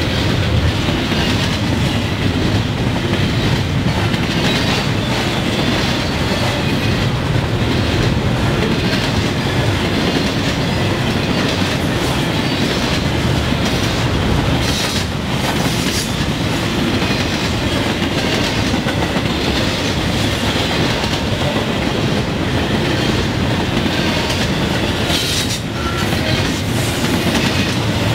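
Double-stack intermodal freight cars of a Norfolk Southern train rolling past: a steady rumble with a continual clickety-clack of steel wheels on the rails.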